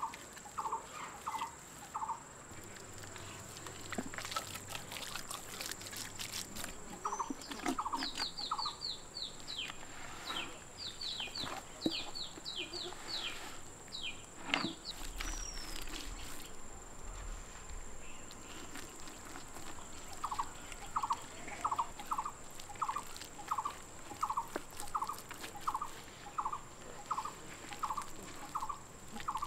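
Birds calling outdoors. One gives a short call repeated about twice a second, in runs near the start and through the second half. Midway, another bird gives a quick series of high, falling chirps. A steady high whine and a few soft clicks sit underneath.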